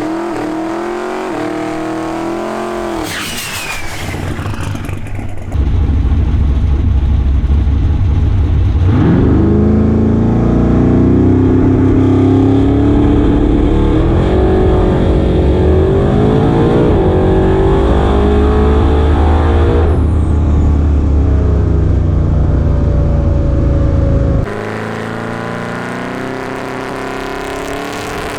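Twin-turbo big-block Chevy V8 of a 1956 Chevy drag car making a pass. It revs at first, then runs loud, its pitch climbing and dropping back several times as it pulls through the gears. About four seconds before the end it cuts off abruptly to a quieter engine sound.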